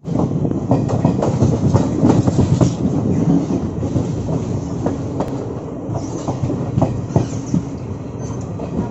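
Passenger train running, heard from inside the coach at its open doorway: a steady rumble with the wheels knocking irregularly over the rail joints. It grows a little quieter toward the end as the train slows into the station.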